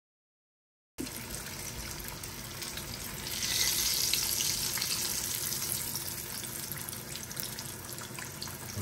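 Fish frying in hot oil: a steady sizzle that starts about a second in, grows louder about three seconds in, then eases a little.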